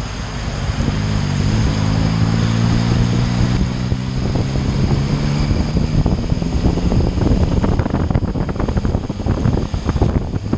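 Motorcycle ride with the engine running and wind buffeting the microphone. A steady engine hum stands out in the first half, then gives way to choppy, gusting wind noise.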